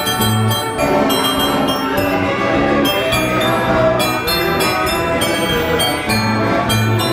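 1918 Wurlitzer Style 157 carousel band organ playing a tune: many pipe notes at once over low bass notes.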